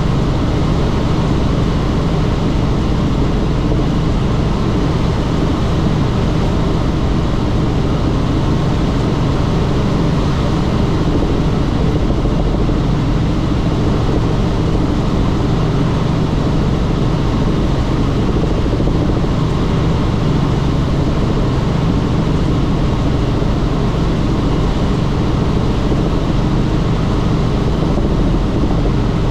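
Helicopter in flight, heard from on board: a loud, steady drone of rotor and turbine engine with no change in pitch.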